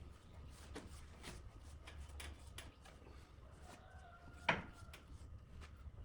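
Scattered light clicks and knocks of objects being handled, with one sharper knock about four and a half seconds in, over a steady low hum.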